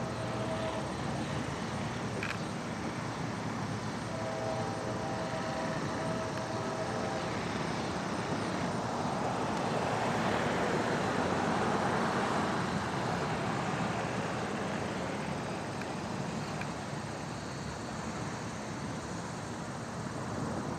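Outdoor traffic rumble with a vehicle passing, swelling to a peak midway and fading again. A faint distant horn chord sounds for about three seconds, about four seconds in.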